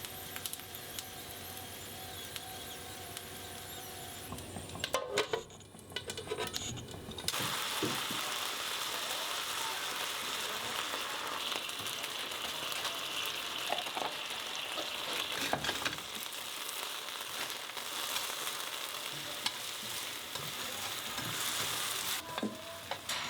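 Turnip slices sizzling as they sauté in a frying pan, with a few clinks of utensils about five seconds in; from about seven seconds the sizzling gets louder and fuller.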